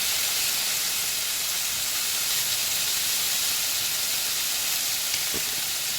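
Chicken frying in butter in a pan: a steady, even sizzle.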